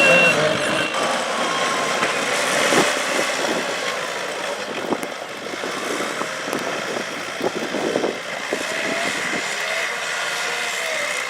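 Snow plow trucks working: engines running, with scattered clunks and knocks and a reversing beep that stops just at the start.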